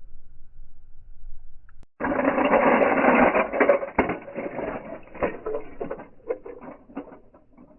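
Slowed-down sound of 1/64 scale diecast toy cars crashing: a dense metal-and-plastic rattle that starts suddenly about two seconds in, then thins into scattered clicks and ticks as the pieces settle.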